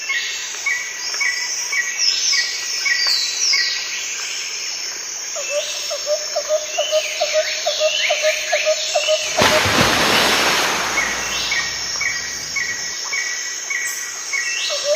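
A chorus of wild birds calling at once: rows of short repeated chirps, high whistles sliding downward, and a fast run of lower notes starting about five seconds in. About nine seconds in, a broad rush of noise covers them for a second or two.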